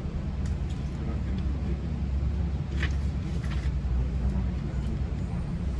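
Steady low rumble of a GO Transit bilevel passenger train running on the line, heard from inside the coach, with a few short clicks about three seconds in.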